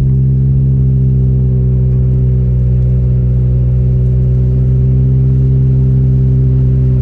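Car engine droning at steady, raised revs, heard from inside the cabin while driving on a snowy road.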